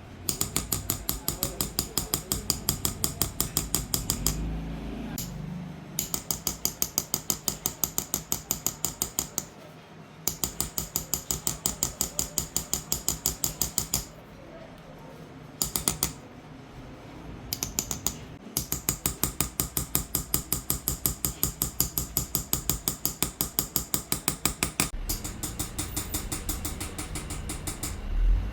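Qalamzani silver engraving: a small hammer tapping a steel chisel into a silver dish in quick, even light metallic taps, about six a second, in runs of several seconds with short pauses between.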